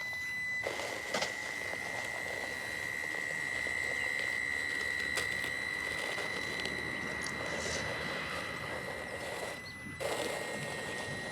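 Traxxas TRX4M Bronco RC crawler running: its small electric motor gives a steady high whine over gear and tyre noise. The running noise dips briefly twice, near the start and shortly before the end.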